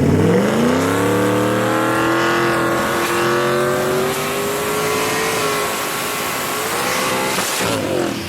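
Supercharged and big-turbo Ford Mustang 5.0 V8s launching in a drag race at full throttle. The engine note climbs steeply at the launch, then keeps rising steadily for about seven seconds before dropping near the end.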